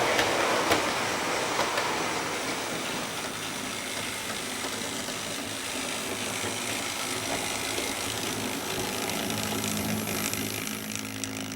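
Model train running on the layout's track: a locomotive's small electric motor and the wheels of the carriages and wagons rolling over rail joints, with a few sharp clicks in the first two seconds. A steady low motor hum comes in about nine seconds in.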